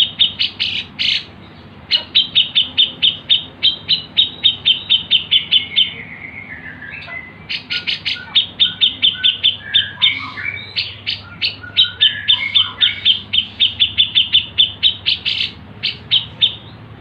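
Recorded songbird calls played as bird-training audio: fast trains of sharp, high chirps, about six a second, with a short break about six seconds in. Lower whistled notes are mixed in through the middle, over a faint steady low hum.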